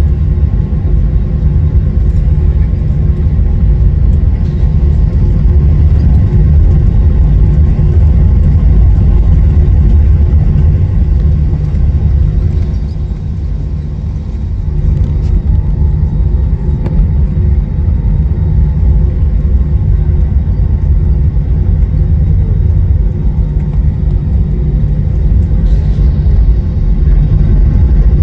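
Airliner cabin noise while taxiing after landing: a loud, steady low rumble with a few faint steady tones, easing briefly about halfway through.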